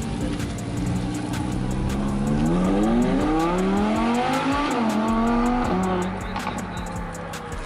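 Sports car engine accelerating hard, its pitch climbing steeply for a couple of seconds, dipping briefly at a gear change around the middle, climbing again, then falling off as the car lifts or passes.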